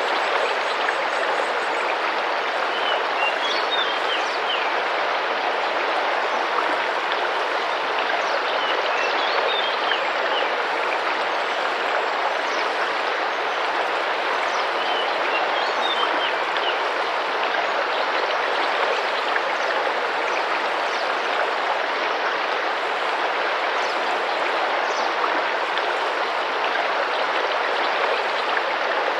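Tropical rainforest river with gentle water splashing steadily. Over it, birds give short high chirps in a few brief clusters.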